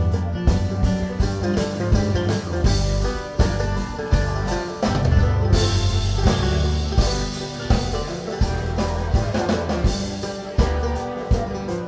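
Live band playing an instrumental passage: strummed guitar over a drum kit keeping a steady beat, with cymbals growing brighter about halfway through.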